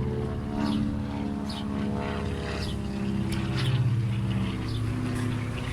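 Propeller airplane flying over, a steady engine drone whose pitch drifts slightly as it passes.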